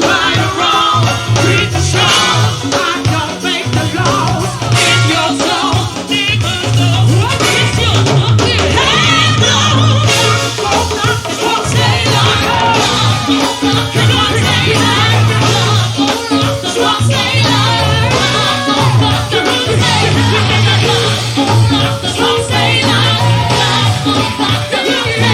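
Live go-go band playing with a singer's voice over a strong, steady bass line.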